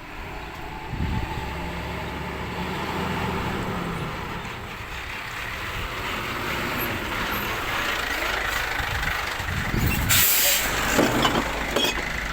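Heavy glass-collection truck's engine running and growing louder towards the end. About ten seconds in comes a short, loud hiss of air brakes.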